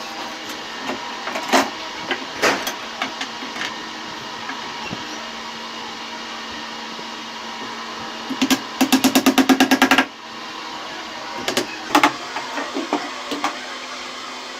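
Scattered sharp knocks and taps of workshop work on wood over a steady hum. About eight and a half seconds in comes a fast run of clicks, roughly a dozen a second for a second and a half, followed by a few more knocks.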